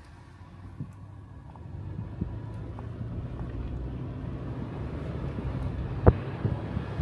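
A moving car's steady low road and engine rumble grows louder about two seconds in. There are a few light ticks and one sharp knock about six seconds in.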